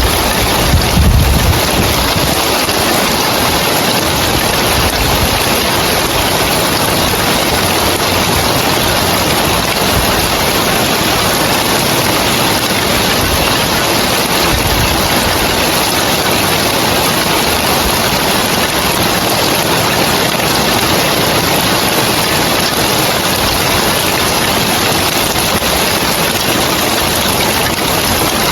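Heavy rain falling steadily on roof tiles, an even, unbroken hiss. A brief low rumble comes about a second in.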